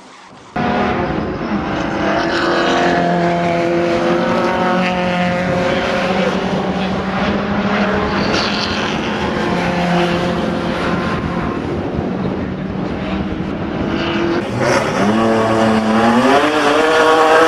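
High-revving car engine running at a steady high pitch at speed, cutting in abruptly. About fourteen seconds in, a second engine revs up, its pitch climbing quickly and then holding.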